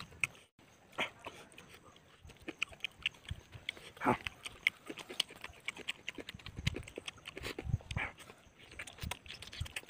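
A person eating crispy roasted chicken close to the microphone: chewing, smacking and small crunches, with louder mouth sounds about a second in, at about four seconds and near eight seconds.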